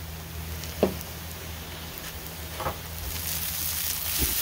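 Dehydrated hash brown potatoes sizzling in a frying pan. The sizzle grows louder about three seconds in as the pan is shifted and the potatoes are stirred, with a few soft knocks.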